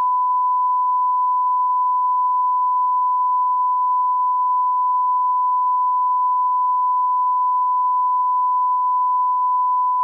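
Steady 1 kHz sine-wave line-up tone played with broadcast colour bars, one unbroken pitch at constant level.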